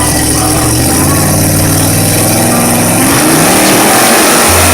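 Pulling truck's engine running loud and revving, its pitch climbing from about three seconds in.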